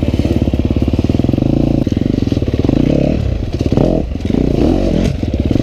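250cc four-stroke dirt bike engine running under the rider, its note rising and falling a few times from about halfway through as the throttle is worked.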